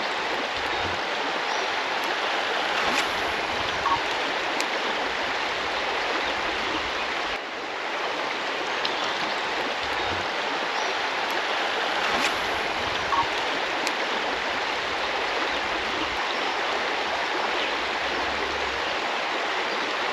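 Creek water flowing steadily, an even hiss of moving water, with a few faint ticks over it.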